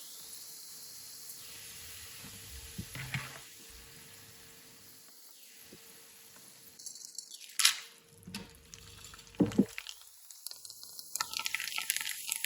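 Kitchen work: a faint steady hiss, with a few sharp knocks of utensils or dishes in the second half and a run of clattering near the end.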